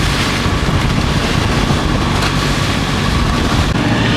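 A sailboat's motor running steadily while under way, with wind buffeting the microphone.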